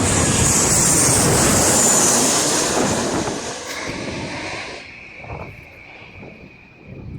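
Jet airliner passing overhead on its approach to land: loud engine noise with a high whine that falls in pitch, fading away from about three seconds in and leaving a fainter steady whistle.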